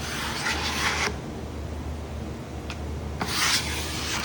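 A scraper spreading glue over a wood panel before veneering. There are two scraping strokes, one about half a second in and one near the end.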